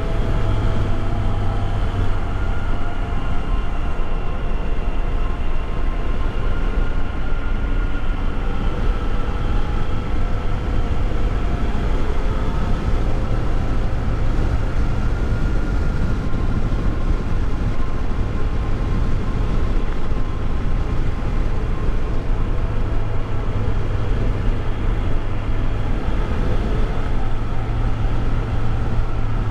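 Motorcycle engine running at steady cruising speed, its pitch drifting slightly with the throttle, under heavy wind rush on the rider's camera microphone. The bike has no loud pipes.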